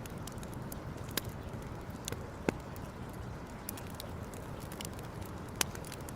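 Campfire burning with irregular crackles and sharp pops, three louder pops standing out over a steady low hiss.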